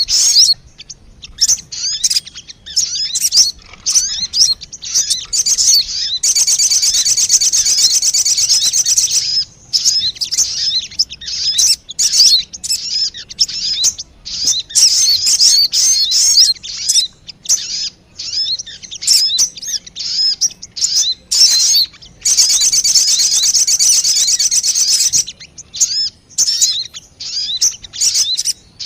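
Sogon bird lure-call recording: quick high chirps and twitters, broken by two dense trilling runs of about three seconds each, roughly a quarter of the way in and again near three quarters through.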